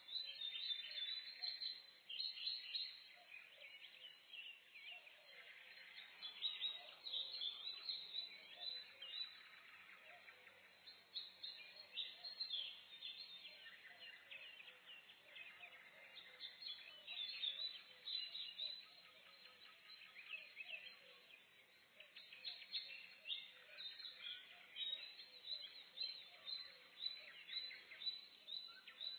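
Several small songbirds chirping and trilling together in a morning forest chorus, many short high calls overlapping in busy clusters over a faint steady background hiss.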